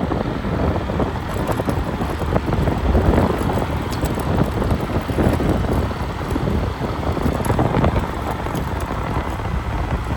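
Wind buffeting the microphone: a steady, gusting rumble with no distinct engine note.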